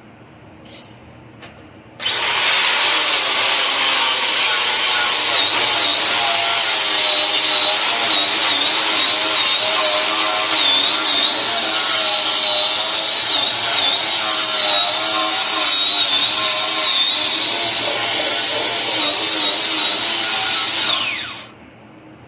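Power grinder working on steel frame metal, a loud steady grinding with a high whine that wavers as the load changes. It starts abruptly about two seconds in, runs for about nineteen seconds, then the whine drops in pitch and dies away as the tool winds down.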